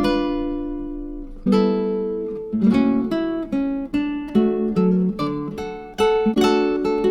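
Background music of plucked string chords, each struck sharply and left to ring out and fade before the next.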